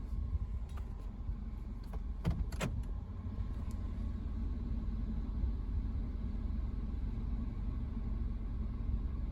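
Steady low mechanical rumble, with a few short clicks or knocks about one to three seconds in.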